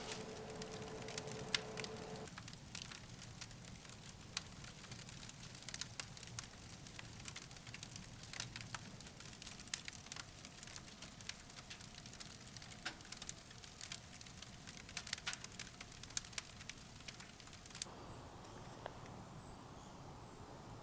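Firewood crackling in a wood stove: scattered faint pops and snaps over a low hiss. A faint steady hum cuts off about two seconds in.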